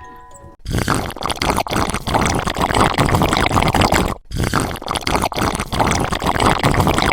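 Water pouring and splashing in a loud, continuous rush, broken by a sudden cut about four seconds in. It starts just after a short chiming music jingle ends.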